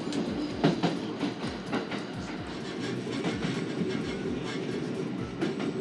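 Inside a Shinano Railway SR1 series electric train running along the line: a steady rumble with the wheels clicking over rail joints several times a second.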